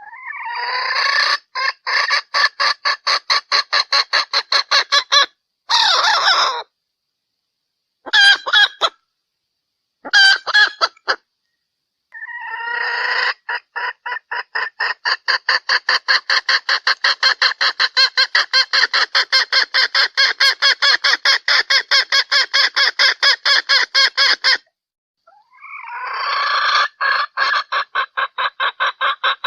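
Junglefowl hen calling: long runs of rapid clucks, about five a second, with a few short bursts and dead-silent gaps between runs. It is the hen's call that draws in males, used here as a lure.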